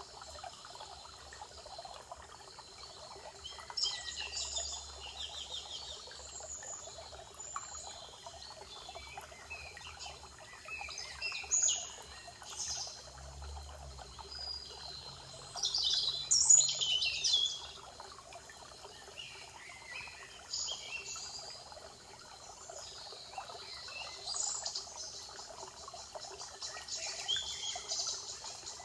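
Forest birds singing short, high song phrases every few seconds, the loudest about sixteen seconds in, over a steady background hiss.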